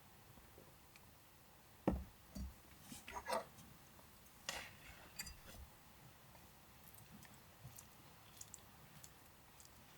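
Light handling noises in a small enclosed space: two soft knocks about two seconds in, then bursts of clicking and rustle, fading to a few faint ticks near the end.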